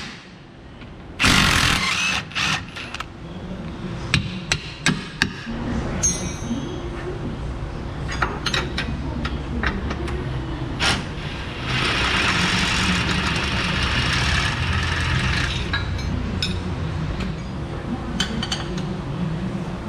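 Jeep Wrangler's 4.0-litre inline-six engine started with a short loud burst about a second in, then running steadily at a low rumble, with scattered clicks and knocks.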